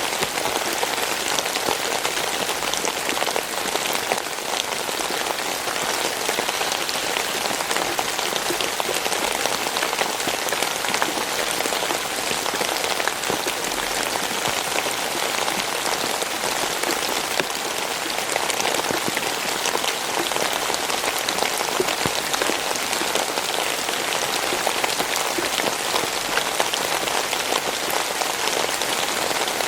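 Steady rain falling, a dense even hiss of many individual drops landing, with no let-up.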